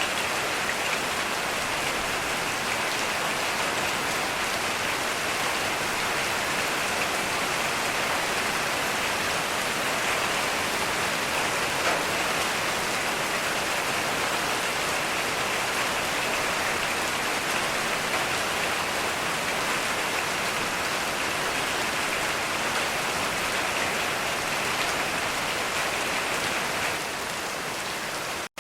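Heavy rain falling steadily, an even hiss of many drops with no thunder, dipping slightly in level near the end.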